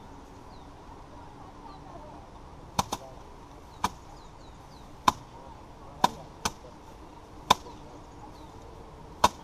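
Sharp thwacks of paddy bundles beaten by hand against a hard threshing surface to knock the rice grain loose. They start about three seconds in and come roughly once a second, a couple of them doubled, with faint bird chirps behind.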